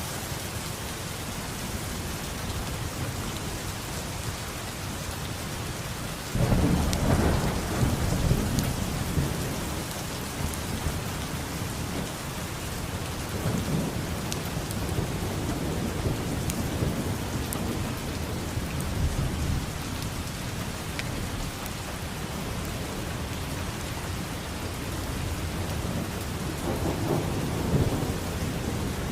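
Steady heavy rain with rolling thunder. A loud rumble breaks in about a quarter of the way through and fades slowly, and another swells up near the end.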